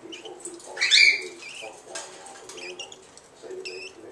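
Pet cockatiel calling: one loud, upward-sweeping whistle about a second in, then a few softer, shorter chirps near the end.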